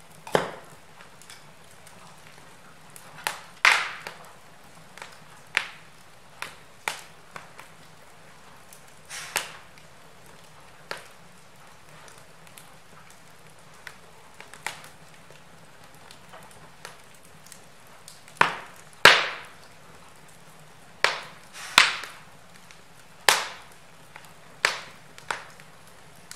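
Wood fire burning in a fireplace, crackling with irregular sharp pops and snaps over a faint steady hiss; a handful of the snaps are much louder, the loudest a little past the middle.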